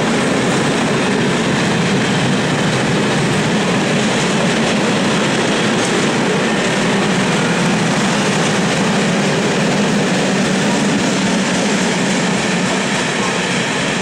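Freight train of high-sided open wagons rolling past close by: a steady rumble and clatter of steel wheels on the rails, easing slightly near the end as the last wagons go by.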